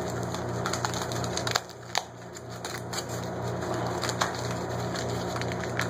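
Thin, cheap aluminium foil crinkling and crackling as it is handled and folded, with irregular small crackles and clicks.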